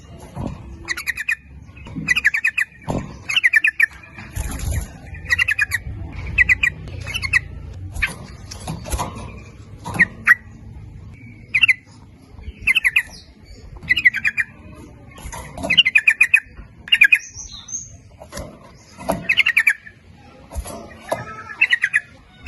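Yellow-vented bulbuls (trucuk) singing short, rapid, bubbly chattering phrases over and over, one burst about every second or so.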